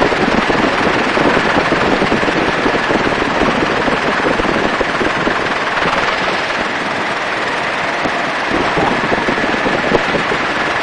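Helicopter in flight heard from the open door position: a steady rush of rotor and engine noise with wind buffeting the microphone.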